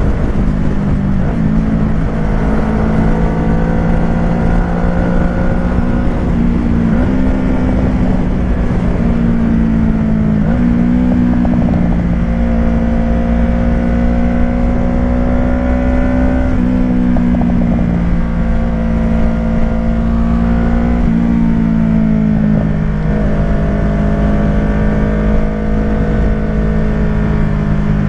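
Kawasaki Ninja 650's parallel-twin engine running through a Shark SRC-4 full aftermarket exhaust while riding. It holds a fairly steady engine speed, with small rises and drops in pitch every few seconds as the throttle changes.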